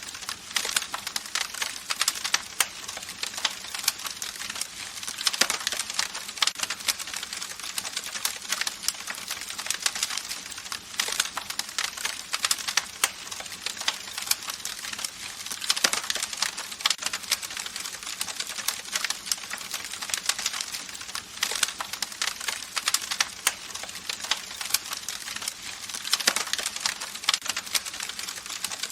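Wood campfire crackling and popping: dense, irregular crackles over a steady hiss, with a louder pop every few seconds.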